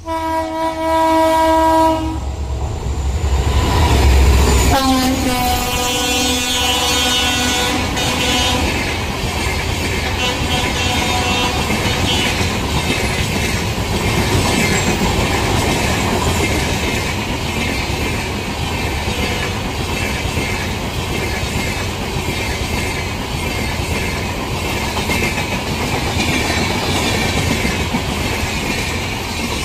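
A WDP4D diesel-electric locomotive (EMD 16-cylinder two-stroke engine) blows its horn as it approaches at speed, then passes with a heavy engine rumble. Its horn sounds again and drops in pitch as it goes by. Then the passenger coaches rush past with a steady clickety-clack of wheels over the rail joints.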